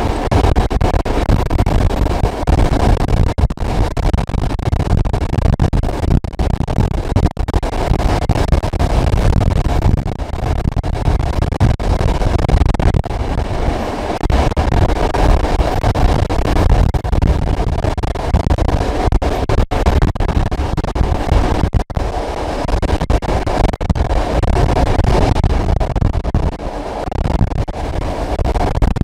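Passenger train hauled by an SP42 diesel locomotive in motion: a steady, loud running rumble, with a few momentary gaps in the sound.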